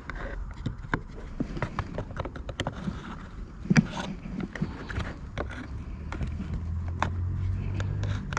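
Scattered clicks and knocks of objects being handled, with one louder knock just under four seconds in. A low steady hum starts about halfway through and stops shortly before the end.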